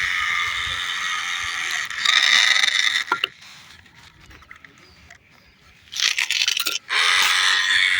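Electric drive motor and gearbox of a remote-control toy tractor whining steadily as it drives over soil, with some scraping from the wheels. It cuts off just after three seconds in, stays quiet for about three seconds, then starts again in two short goes before running on.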